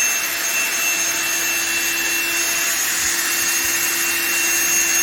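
Ryobi ONE+ HP 18-volt brushless drill/driver running unloaded on the trigger, a steady high whine and hiss that holds one pitch throughout.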